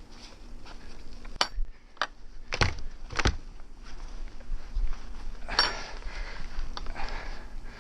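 A handful of sharp metallic clinks and knocks, a second or so apart, the last one longer and rougher, like metal scraping.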